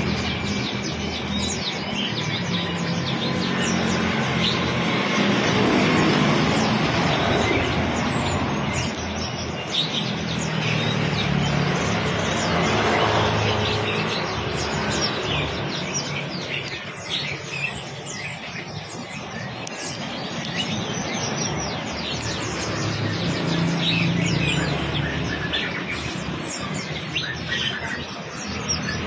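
Oriental magpie-robin (kacer) singing on and on in fast, varied chirps and whistles, the full song of a bird in top singing form, over a steady low background hum.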